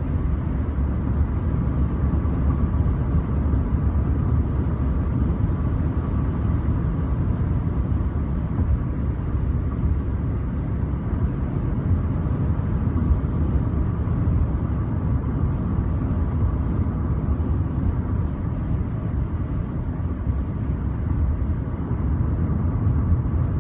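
Steady road and engine noise of a car driving at speed: an even low rumble with a faint steady hum above it.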